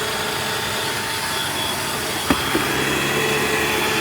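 Bissell Rewind SmartClean upright vacuum cleaner running steadily with the air-driven turbo brush attachment on its hose: a whine over a rush of air, with one sharp click a little over two seconds in.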